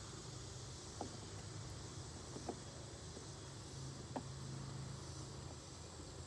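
A honeybee colony buzzing in a steady low hum, with a few faint clicks.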